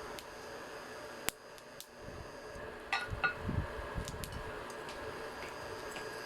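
A few light clicks and a short ringing clink of kitchenware being handled, over a steady background hum.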